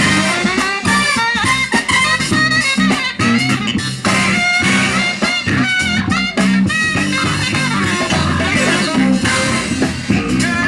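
A live funk band plays an instrumental break with no vocals: a steady bass line and drums under a lead melody whose notes bend in pitch.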